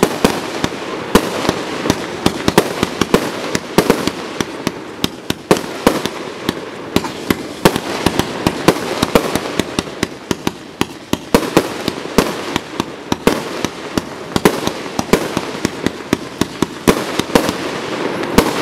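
Aerial fireworks display going off in a rapid barrage: many sharp bangs a second from shell bursts over a continuous rumble and crackle.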